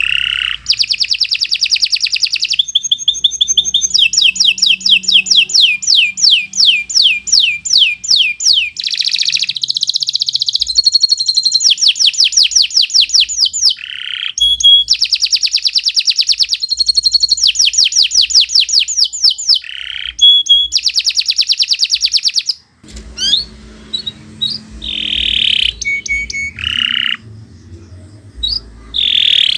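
Domestic canary singing long, continuous song: rapid trills of quickly repeated notes, high-pitched, with short pauses between phrases. About 23 s in the song turns to sparser, separate phrases over a low hum.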